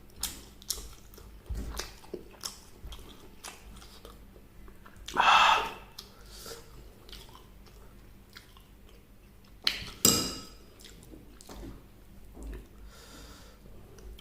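Close-miked chewing and biting of fried chicken and crunchy vegetables, with many small wet clicks. There is one louder, half-second crunch about five seconds in and a sharp pair of bites around ten seconds.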